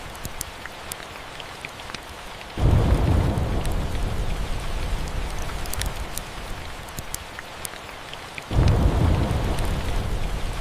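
Steady rain with small sharp crackles, broken by two rolls of thunder: the first sets in suddenly about two and a half seconds in and rumbles for several seconds, the second starts near the end.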